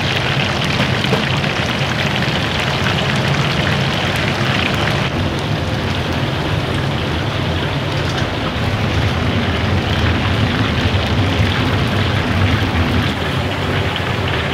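Steady, loud sizzling of food frying in hot oil in a commercial kitchen, with a low, even rumble underneath.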